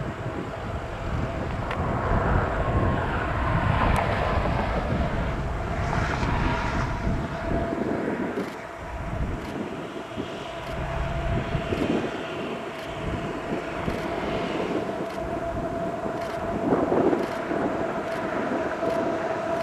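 Freight train with GE ES44AC diesel locomotives approaching: a low drone that swells and ebbs, with a steady tone that grows stronger toward the end.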